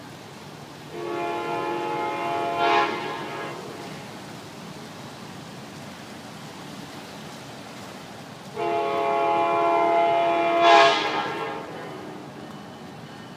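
Tri-Rail commuter train's horn sounding two long blasts about seven seconds apart, each swelling briefly louder just before it ends.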